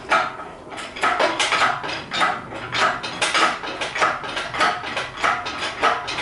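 Engine crane working as an engine is raised on it: a run of short metallic clanks, about two a second.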